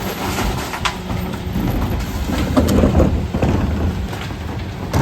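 Mercedes Econic refuse truck at work: engine and hydraulics running under a loud, dense rumble, with a few sharp knocks and clatters.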